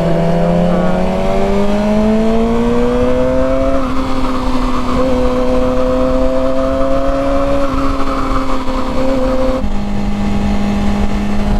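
Motorcycle engine running under way: its pitch rises steadily over the first four seconds as it accelerates, holds steady, then drops to lower revs near the end. A steady rush of wind and road noise runs under it.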